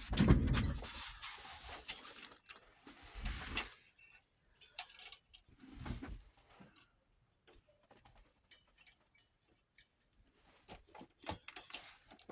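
Handling noise from a small 8mm film viewer being fiddled with: a loud rustling clatter at the start and again about three seconds in, then a bump and scattered light clicks and rattles.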